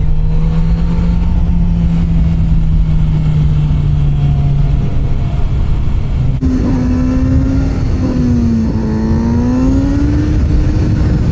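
2024 Kawasaki Z900RS Cafe's inline-four engine running at steady revs while riding. About six seconds in, the pitch jumps higher, sags briefly, then climbs again as the throttle is opened.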